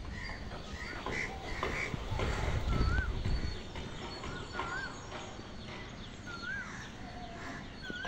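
Birds calling: several short calls in the first two seconds, then a short rising-and-falling call repeated about every two seconds. A low rumble swells briefly near the middle.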